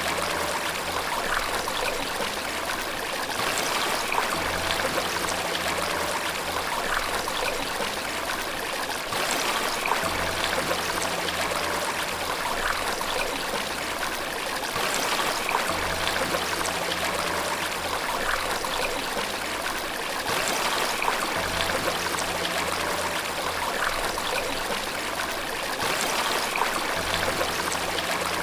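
Running water with a steady rushing hiss. Under it, slow, low sustained notes of soft relaxation music change about every five or six seconds.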